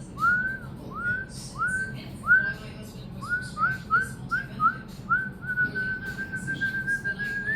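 Whistling: a run of short notes, each sliding upward, about two or three a second, then one long held note near the end.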